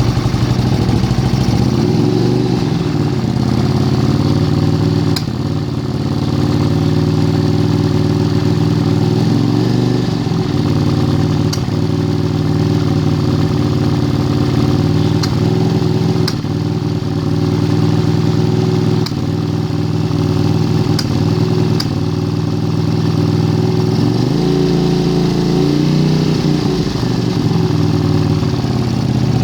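Honda CX500 V-twin engine running at idle and burping, its speed rising and dipping slightly a few times, with occasional sharp ticks.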